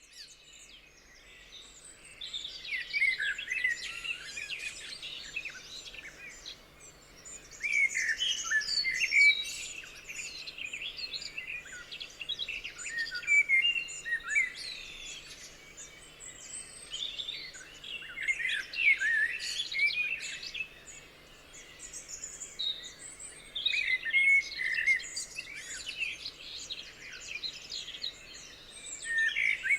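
Wild birds singing together, many overlapping chirps and short trills that swell and ease in waves every few seconds.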